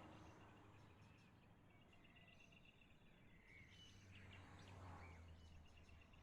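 Near silence: faint outdoor ambience with a low hum, a steady insect-like pulsing, and a few short distant bird chirps in the second half.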